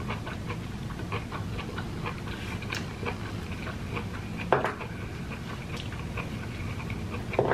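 A person chewing soft, sticky jackfruit flesh with the mouth close to the microphone: irregular wet mouth clicks and smacks over a low steady hum, with a sharper click about four and a half seconds in and another near the end.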